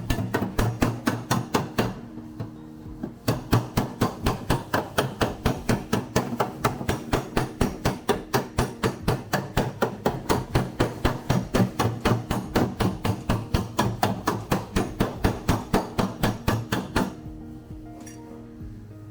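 Panel-beating hammer striking a car's steel body panel in a fast, even run of blows, several a second. The hammering pauses for about a second near the start, then stops about two seconds before the end. Background music plays underneath.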